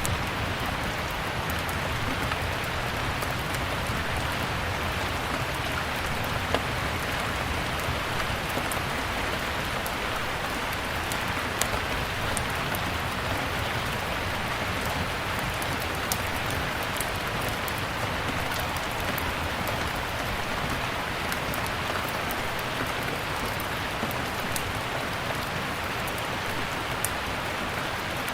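Steady rain with scattered sharp crackles and pops of a fireplace fire.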